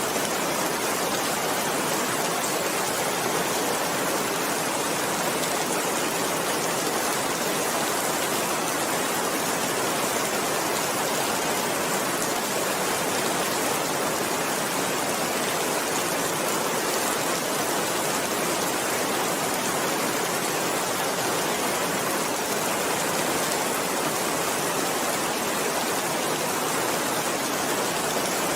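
Steady rain falling, an even unbroken hiss with no thunder or single drops standing out.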